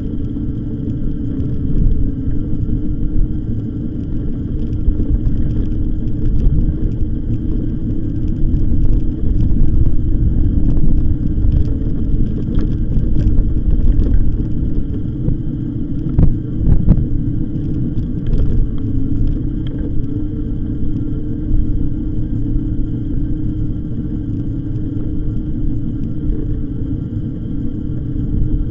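Steady low rumble of a moving e-bike ride: wind on the microphone and tyres on the path, with a few short knocks in the middle.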